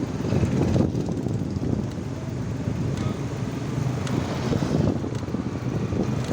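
Wind rumbling on the microphone over steady road traffic noise while riding along a street.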